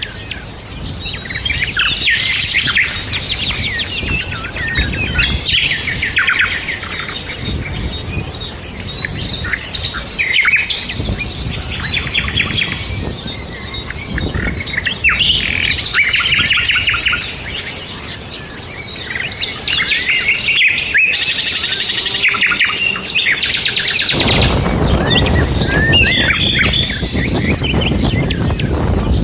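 Several birds chirping and trilling, with many short overlapping calls and an even high pulsing note behind them. A low rumbling noise comes in strongly near the end.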